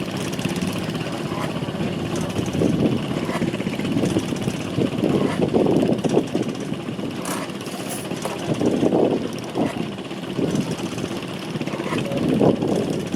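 An early 20th-century stationary internal-combustion engine running with a quick, even mechanical beat, swelling louder every few seconds.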